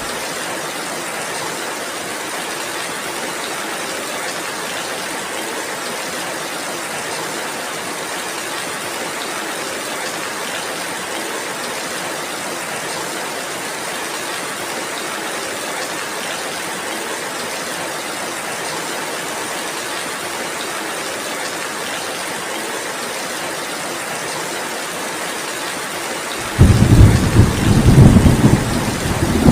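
Heavy rain falling in a steady, even hiss. Near the end, a loud low rumble of thunder breaks in suddenly and keeps rolling.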